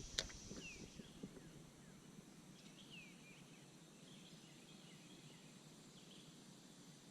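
Near silence: faint outdoor ambience, with a single click just after the start and a few short, faint falling chirps.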